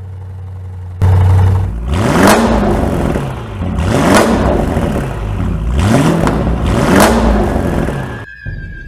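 Mansory/MTM-tuned Audi RS6's 4.0-litre twin-turbo V8 idling, then revved hard about four times, each rev climbing and falling away. Music comes in near the end.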